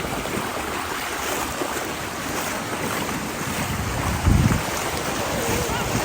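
Surf washing at the shoreline, with wind buffeting the microphone and one louder low gust about four seconds in.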